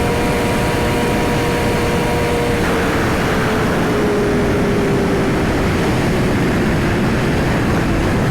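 Yamaha R6's inline-four engine running at speed under heavy wind rush. Its steady high note holds for the first couple of seconds, then changes and falls slowly as the engine winds down.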